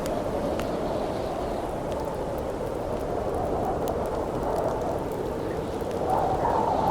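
Wind blowing in a steady rushing haze that swells louder near the end, over the scattered sharp pops and snaps of a crackling wood campfire.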